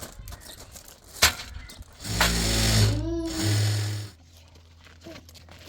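Electric sewing machine running in two short bursts, about two seconds in all, after a single sharp click.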